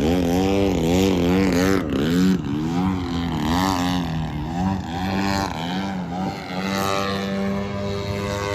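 RC model airplane's motor and propeller running, its pitch swinging up and down about twice a second as it manoeuvres, then settling to a steadier tone near the end.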